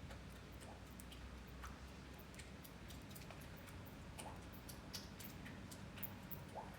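Irregular drips of rainwater tapping, several sharp ticks a second, over a low steady hum.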